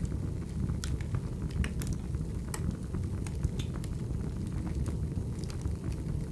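Wood fire burning: a steady low rumble of flames with scattered sharp crackles and pops from the logs.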